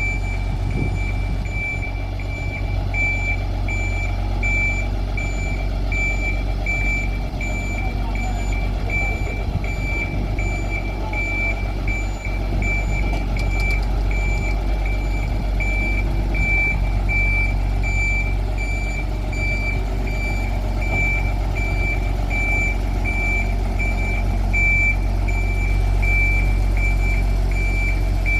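Vehicle reversing alarm beeping steadily, about two beeps a second, over a continuous low engine or motor drone during a tram depot shunting move.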